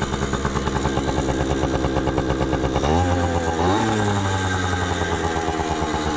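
Pit bike's small single-cylinder engine idling with a steady, even putter. About halfway through it revs up twice in quick succession, then settles back to a slightly faster idle.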